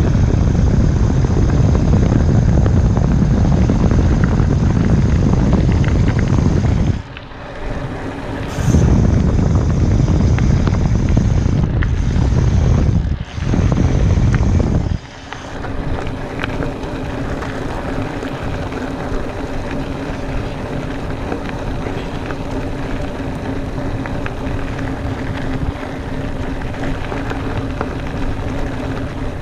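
Wind buffeting the microphone and tyres rolling over a dirt trail as a mountain bike rides fast, loud and low, with two brief lulls. About fifteen seconds in it drops to a quieter, steady rolling noise with a faint hum.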